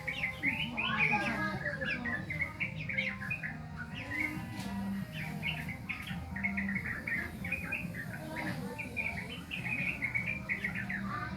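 Young yellow-vented bulbul (trucukan) practising its song: rapid, jumbled chirps and short warbled phrases in bursts, the unformed subsong of a bird still learning to sing.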